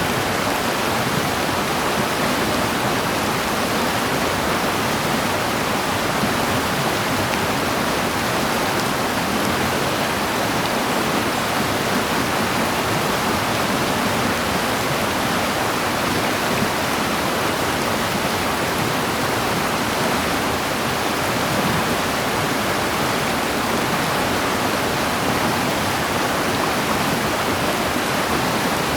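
Rushing water, a steady, unbroken sound with no separate events.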